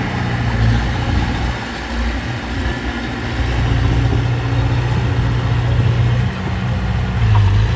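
Diesel engine of heavy earthmoving equipment running steadily with a low hum, easing off briefly about two seconds in.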